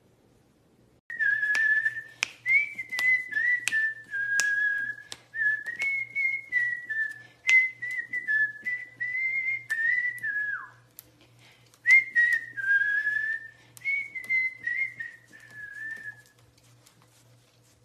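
A pet bird whistling a tune of short held notes, with sharp clicks among them. The tune ends on a downward slide, pauses briefly, then starts again for a few more seconds.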